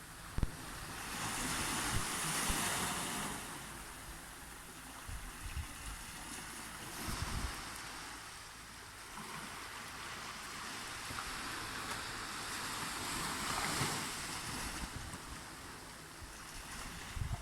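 Ocean waves breaking and washing on a white-sand beach, the surf swelling and fading several times, with wind buffeting the microphone.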